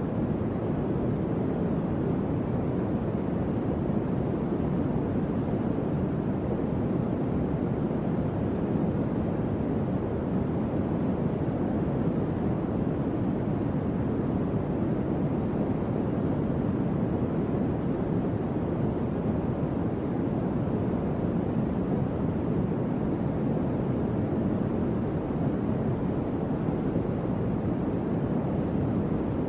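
Electric fan running steadily: an even, low whooshing hum of moving air with no changes.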